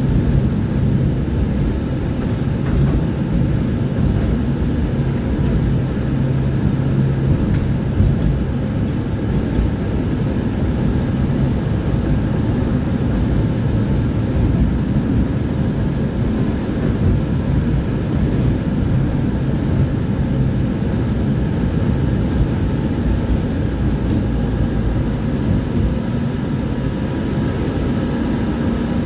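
Tram running along the line: a steady low rumble of wheels on rails, with a faint steady whine above it.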